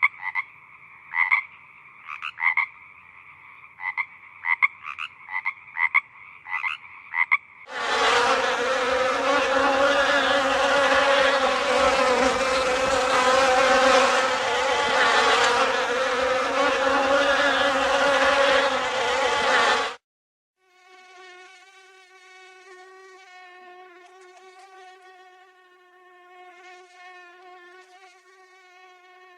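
Three animal sound clips in a row: first a string of short, repeated croaking calls, then a loud, dense buzzing drone that cuts off suddenly about 20 seconds in, then a faint, steady whine like a flying insect.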